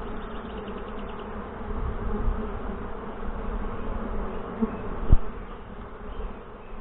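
Swarm of honey bees buzzing in a steady hum around an opened hive, with a single thump about five seconds in.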